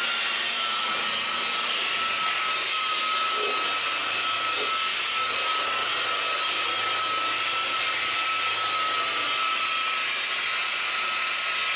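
A motor running steadily: a constant whine with a hiss.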